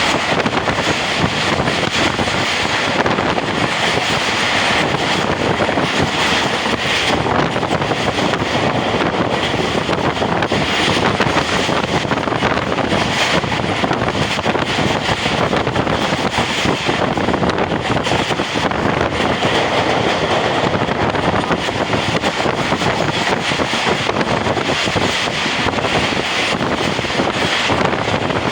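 Pakistan Railways express passenger train running at speed: a steady noise of wheels on rails mixed with wind on the microphone, holding the same level throughout with no pass-by rise or fall.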